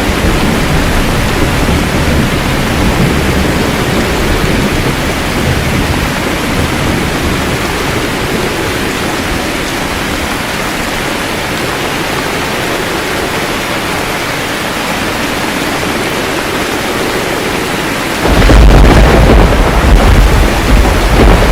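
Steady rain with thunder. A low rumble dies away in the first several seconds, then a loud thunder rumble breaks in suddenly near the end.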